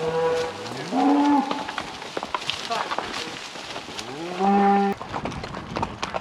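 Cattle mooing: a call right at the start, another that rises in pitch about a second in, and a longer rising moo near four seconds in. Scattered short knocks are heard between the calls.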